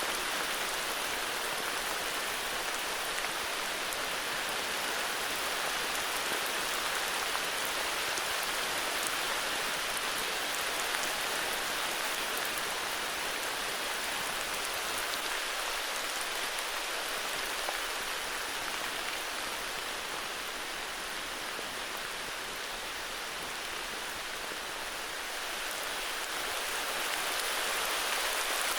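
Steady heavy rainfall, a dense even hiss of drops with fine pattering ticks, easing slightly about three-quarters of the way through and building again near the end.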